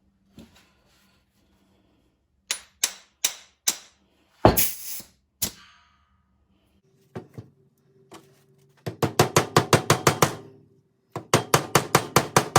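Pneumatic flange tool clacking as it is worked on air: a few single sharp strokes, then two runs of rapid strokes at about eight to ten a second. The tool is being tested after an adjustment it does not respond properly to.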